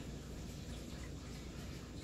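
Hunter ceiling fan running on its high setting: a faint, steady hum with air noise.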